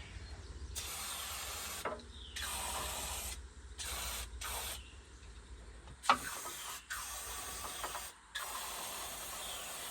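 An aerosol can of brake cleaner sprayed in a series of short hissing bursts, seven in all, each lasting between half a second and two seconds.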